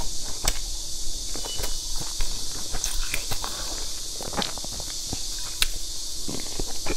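Close-miked mouth sounds of eating milk-soaked cake: scattered wet clicks and smacks of chewing and biting, over a steady hiss.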